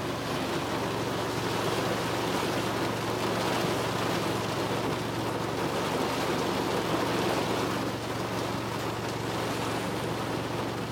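Rain falling steadily, an even hiss with no distinct drops or gaps.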